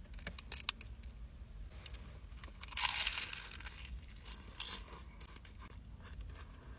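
Close-up crunching and crinkling as a fried Vietnamese egg roll wrapped in lettuce is handled and bitten, with scattered small crackles and one louder crunch about three seconds in.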